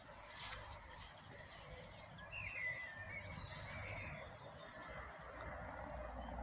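Steady outdoor background noise with a few short bird chirps a little over two seconds in and a thin bird whistle around four seconds in, over a low rumble.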